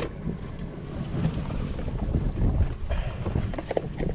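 Wind buffeting the microphone on a small fishing boat at sea, a heavy uneven rumble with water sounds and a few scattered light knocks.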